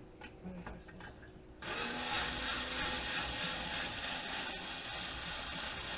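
A few small handling clicks, then from about a second and a half in an electric drill-driver runs steadily, backing out a screw from the network switch's casing.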